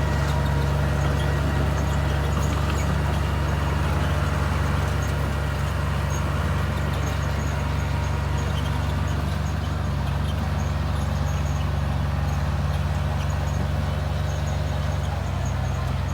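Komatsu bulldozer's diesel engine running steadily under load. The engine note shifts near the end.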